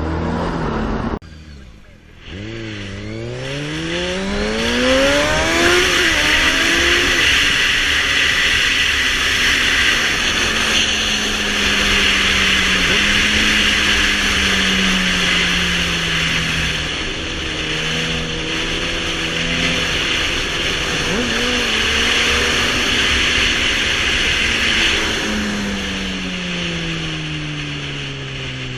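A motor vehicle engine accelerating hard, its pitch climbing and dropping back through several gear changes, then running at a steadier speed before slowing toward the end, under a loud rushing noise of speed.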